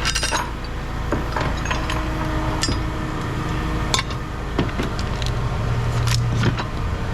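Pieces of scrap metal clinking and clanking as they are handled: several sharp separate knocks with a short ring, over a steady low hum.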